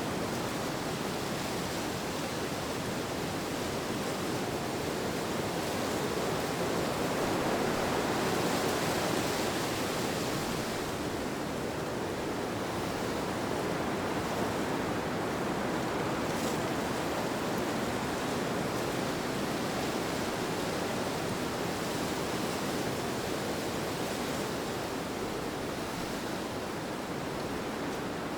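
Steady rushing wind, an even whoosh with no distinct events, swelling a little about eight seconds in and then easing back.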